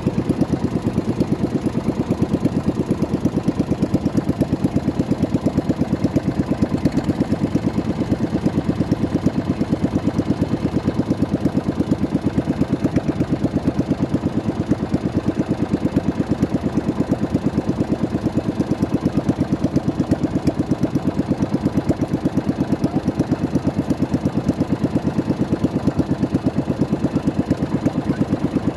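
Boat engine running steadily at low revs, with an even, rapid pulsing beat.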